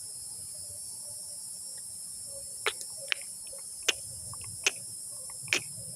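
Steady high-pitched insect chorus, with a series of sharp, loud clicks about once a second in the second half.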